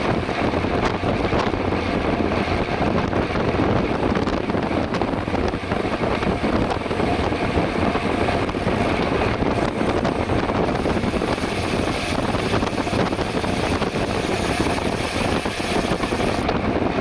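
Steady wind rush and buffeting on the microphone of a camera carried on a bicycle riding at speed, with continuous road noise.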